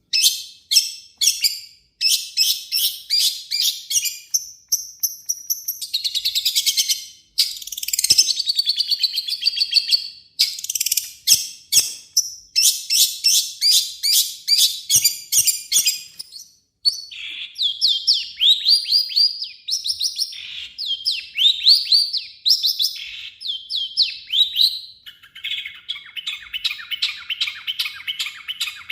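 Long-tailed shrike (cendet) singing a fast, harsh chattering song: rapid strings of short high notes in changing phrases with brief pauses between them, turning to a lower, buzzier rapid run near the end.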